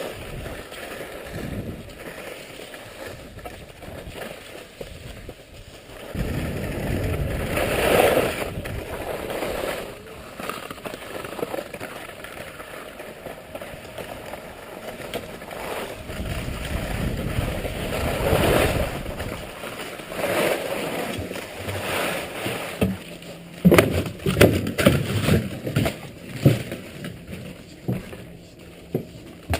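Downhill skis sliding and scraping over snow in long swells, with a run of sharp knocks and clatter over the last few seconds.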